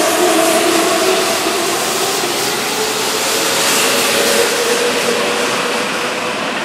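Keihan 7200-series electric train running past a station platform at speed: a steady rush of wheel and running noise with a faint motor hum, staying loud as the last cars go by.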